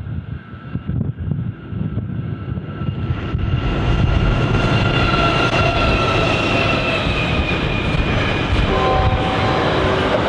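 Two NR class diesel-electric locomotives (GE Cv40-9i) hauling an intermodal container freight train pass close by. The engines grow louder over the first few seconds, with a whine that drops a little in pitch as they go by, and then give way to the steady rumble of the loaded container wagons rolling over the rails.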